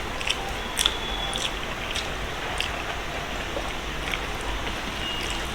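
Close-miked eating: chewing, with small scattered clicks of the mouth over a steady background hiss.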